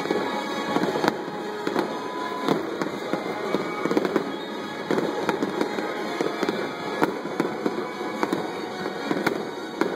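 Aerial firework shells bursting in quick succession: a dozen or so sharp bangs at irregular spacing.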